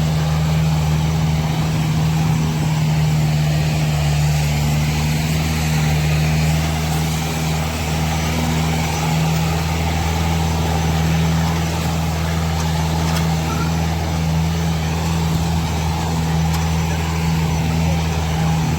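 Mahindra Arjun 605 tractor's diesel engine running steadily at a constant pitch while pulling a double harrow.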